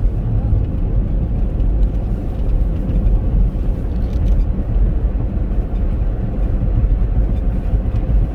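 Steady low rumble of a Chevrolet Captiva driving, heard from inside the cabin: engine and tyre noise on snow-covered roads.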